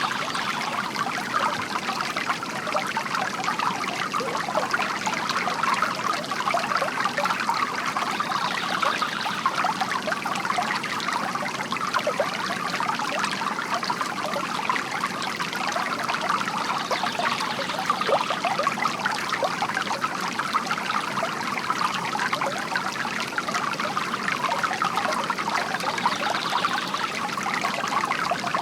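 Water from a bamboo fountain trickling and splashing steadily into its basin.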